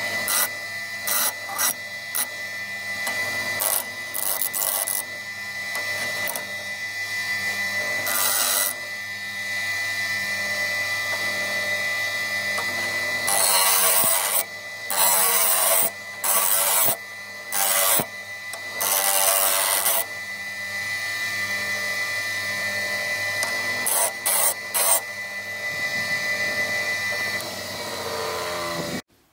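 A power tool's motor running with a steady high whine, with repeated loud, hissing bursts where the work is pressed against it, most of them in the middle stretch; it cuts off abruptly near the end.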